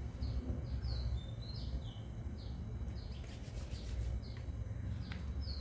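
A bird chirping: short, high, falling notes about two a second, over a steady low rumble.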